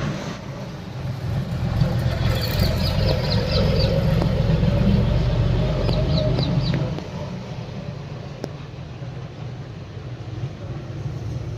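Tractor engine running steadily. It gets louder about two seconds in and eases back down around seven seconds. Two short runs of rapid high chirps sound over it.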